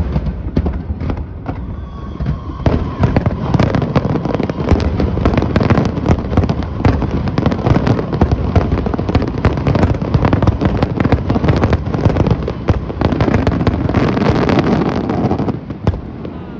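Aerial fireworks display: a dense barrage of shells bursting in rapid, overlapping bangs and crackles. It dies away with a sudden drop near the end.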